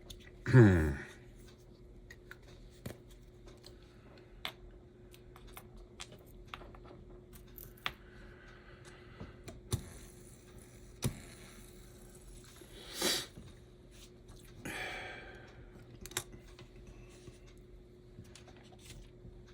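Small parts and tools being handled on a workbench while an HO-scale slot car chassis is put back together: sparse light clicks and taps, one sharper tick about thirteen seconds in and a short rustle just after. A brief low voice sound near the start, over a faint steady hum.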